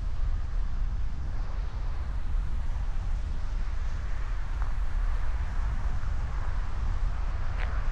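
Wind buffeting the microphone as a steady low rumble over outdoor ambience, with one short high-pitched sound near the end.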